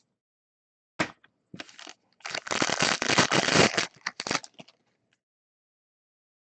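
Plastic wrapper of a trading-card pack crinkling and crackling as it is torn open, after a single sharp click about a second in; the crinkling is loudest for about two seconds and dies away before the end.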